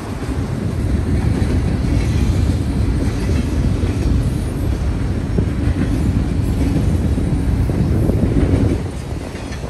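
Freight train cars, mostly autoracks, rolling past: a steady low rumble of steel wheels on the rails that drops in level just before the end.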